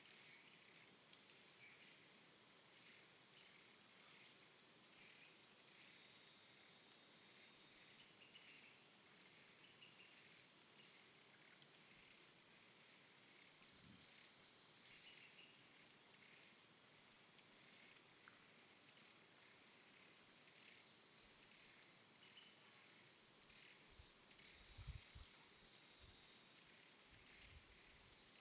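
Faint steady chorus of insects such as crickets, holding one high tone, with scattered short bird chirps and a few soft low thumps about 25 seconds in.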